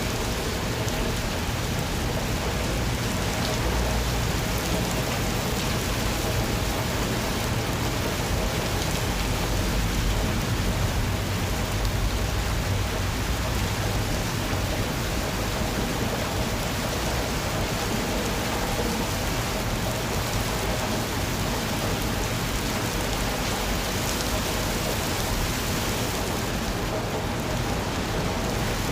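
Steady rain falling, an even dense hiss without break.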